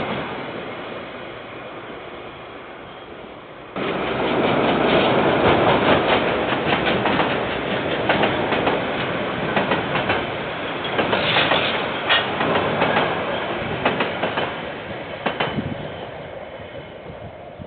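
KiwiRail train passing, its wagon wheels clattering over the rail joints in a run of sharp clicks, heard through a security camera's microphone. The sound jumps louder about four seconds in and fades near the end as the train moves off.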